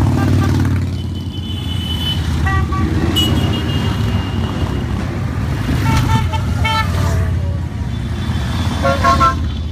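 Steady engine rumble of a long column of motorcycles riding past, with horns beeping several times over it, including a quick string of short beeps about six seconds in.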